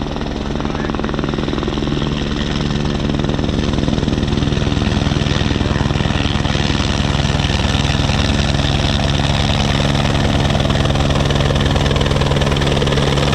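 Helicopter running steadily, its turbine whine and rapid rotor beat loud and constant, rising slightly in level over the first couple of seconds.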